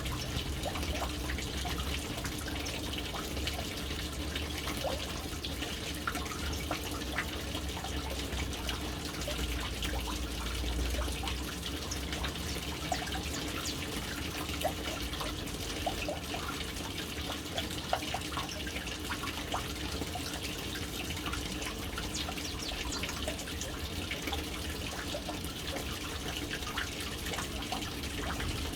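Water falling into a household water tank: a steady splashing and trickling with many small scattered drips, over a low rumble that is stronger in the first ten seconds or so.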